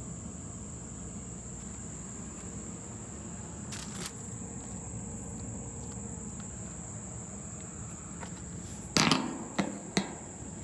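Steady high-pitched insect chirring over a constant low hum. About nine seconds in, three sharp knocks follow one another quickly.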